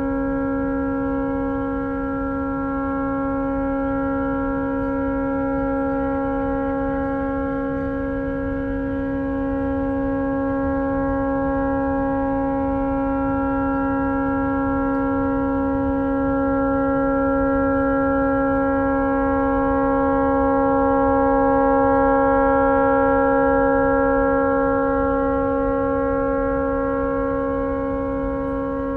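A tugboat's air horn stuck on, sounding one unbroken, steady chord of several tones because the horn has malfunctioned and won't shut off. It swells slightly louder about two-thirds of the way through, then eases back.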